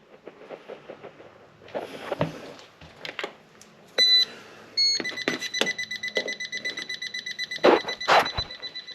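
An electronic beeper sounds two short high beeps, then holds a steady high beep tone, with footsteps and knocks over it.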